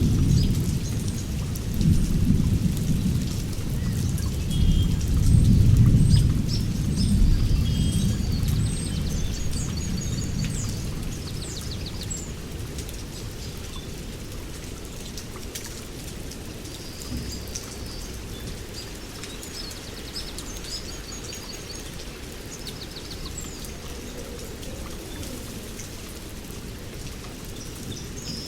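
Steady rain, with a roll of thunder that swells several times over the first ten seconds or so and then fades away. Small songbirds chirp and trill throughout.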